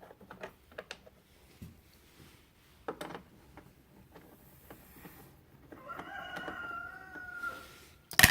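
A rooster crows once in the background, a single drawn-out call of about a second and a half near the end. Around it come faint scattered clicks of hand-tool work on the generator cover, and a sharp metallic clink just before the end, the loudest sound.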